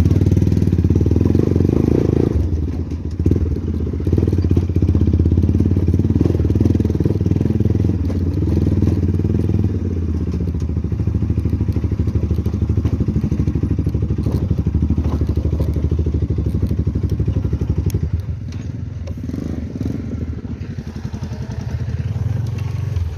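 Motorcycle engine running under load on a rough mountain track, with knocks and clatter from the bumps. It eases briefly a couple of seconds in and drops off again near the end.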